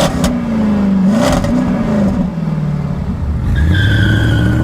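McLaren Senna's twin-turbo V8 revving, its pitch rising and falling, with a few sharp cracks in the first second or so. A steady high whine joins about three and a half seconds in.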